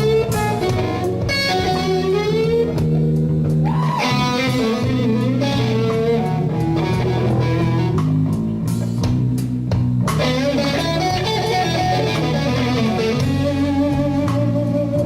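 Electric guitar playing blues lead lines with bent notes, over bass guitar and a backing band.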